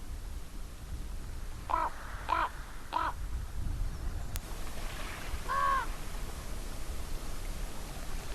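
Crow cawing: three quick caws about two seconds in, then a single longer, arched caw about five and a half seconds in, over a low steady rumble.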